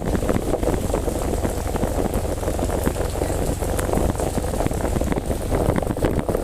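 Heavy rain pouring down, a dense patter of many drops, with wind buffeting the microphone in a steady low rumble.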